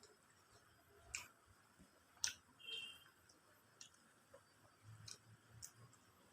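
Quiet eating sounds from someone eating chicken biryani: scattered sharp mouth clicks and faint chewing, about five clicks, the loudest a little past two seconds in, with a brief high squeak just before three seconds.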